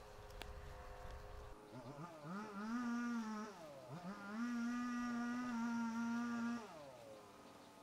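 A small engine revving up and holding a steady high speed, easing off briefly, then revving and holding again before it winds down near the end.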